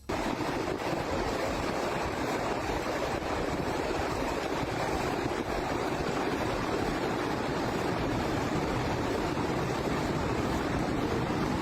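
Fast-flowing floodwater rushing past: a steady, even rush of water noise that cuts in suddenly and holds level throughout.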